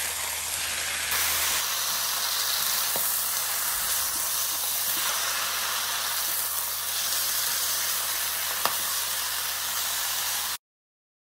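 Sliced raw chicken, onion and green pepper sizzling steadily in a hot non-stick wok as they begin to fry, with an occasional sharp tap of the wooden spatula against the pan as it is stirred. The sizzle cuts off suddenly near the end.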